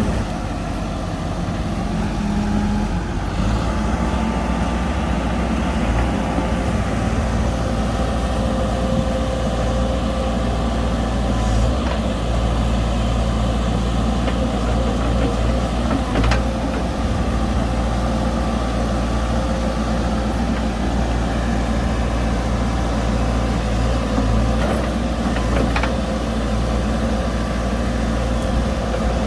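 Heavy diesel engine of earthmoving machinery running steadily, with a few faint knocks.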